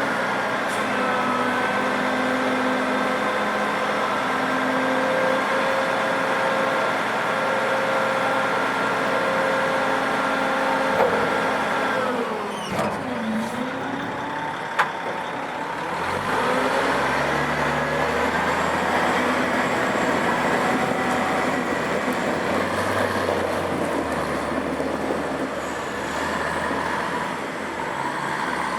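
Cat 740 articulated haul truck's diesel engine running steadily. Around the middle its note dips and recovers, a single sharp click follows, and the engine then pulls with its note rising and a heavier low rumble.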